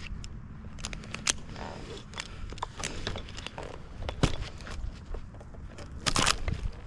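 Movement and handling noise of a tree climber on a limb: scattered clicks, knocks and scrapes, with a longer rustling scrape near the end.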